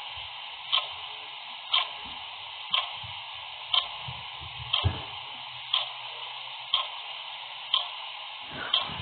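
Clock ticking steadily, one tick a second, over a steady hiss.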